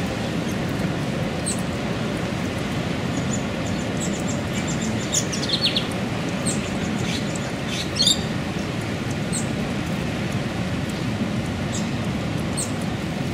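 Bird calls: short, high chirps scattered throughout, with a quick run of them about five to six seconds in and a louder, falling call about eight seconds in, over a steady low rushing background.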